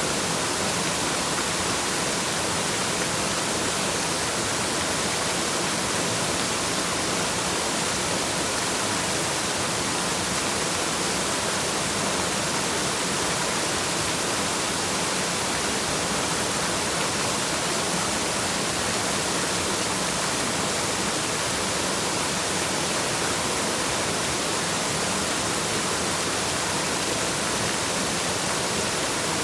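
Waterfall: the steady rush of falling water, an even hiss that holds at one level throughout.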